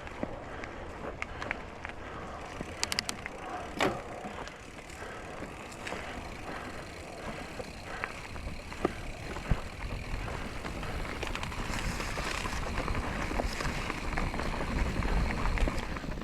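Mountain bike rolling over a rocky dirt trail: steady tyre and riding noise with many sharp rattles and knocks as the wheels hit rocks, growing louder with more wind rumble on the microphone toward the end.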